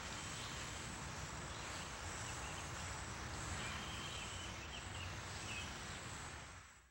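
Quiet outdoor ambience: a steady hiss with a few faint, short high chirps in the middle, fading out near the end.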